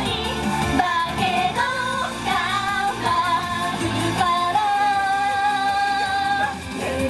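Female idol group singing a J-pop song live over a pop backing track, with a long held note just past the middle.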